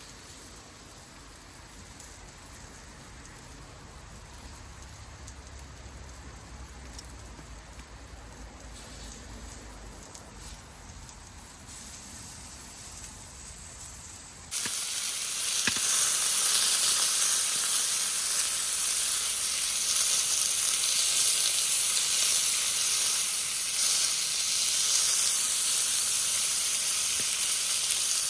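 Meat sizzling over a campfire, a loud, steady frying hiss that starts abruptly about halfway through; before it, only a faint low rumble with the odd crackle.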